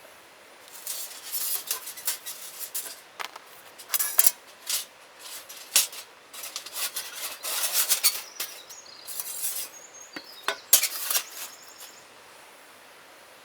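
Camp cookware and utensils being handled: a long run of clinks, knocks and scrapes of metal pieces against each other that stops about a second before the end, over a faint steady outdoor background.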